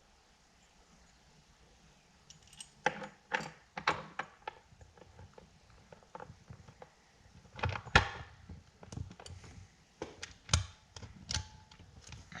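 Scattered sharp clicks and light knocks of small metal parts on a workbench: the vent window handle, its spring-loaded button and a roll pin being handled and fitted. They begin about two seconds in, and the loudest knock comes about eight seconds in.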